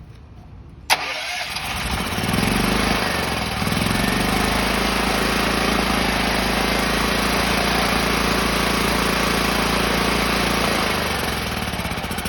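WEN 11,000-watt dual-fuel portable generator engine starting about a second in after a sharp click, then running steadily on its freshly cleaned carburetor. The sound eases somewhat near the end.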